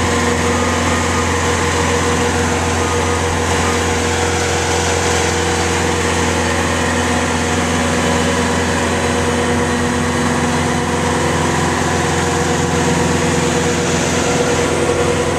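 Bobcat T750 tracked skid steer's diesel engine idling steadily, a constant low hum with no revving.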